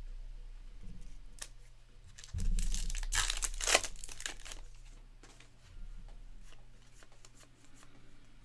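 A trading-card pack wrapper being torn open and crinkled, loudest from about two and a half to four seconds in, with lighter crinkling after.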